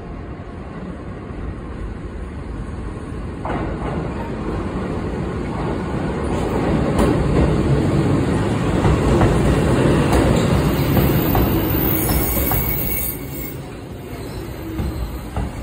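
Kotoden electric train running past along the platform: the rumble of wheels on rails builds as the cars come close, with a few sharp clicks, peaks for several seconds, then falls off about two thirds of the way through.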